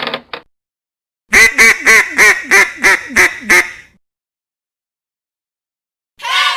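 A duck quacking: a quick run of about eight loud quacks in a little over two seconds, then silence.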